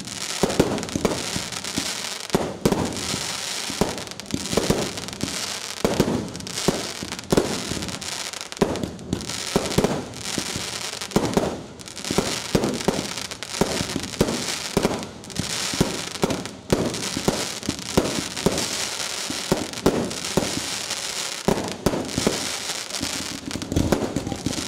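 A fireworks barrage firing continuously: a dense run of bangs and crackling bursts, several a second, with no pause.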